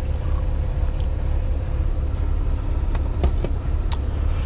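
2024 Freightliner semi truck's diesel engine idling with a steady low rumble. A few light clicks come a little after three seconds in.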